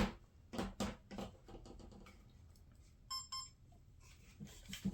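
A few sharp clicks as switches are flipped, then about three seconds in two short high beeps from the RC monster truck's electronics powering up and binding to the transmitter.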